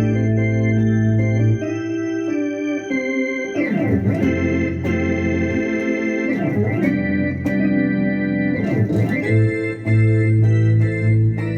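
Roland Fantom FA76 synthesizer playing a B3-style organ patch: held chords that change several times, with two sweeping glides up and down in pitch about 4 and 9 seconds in.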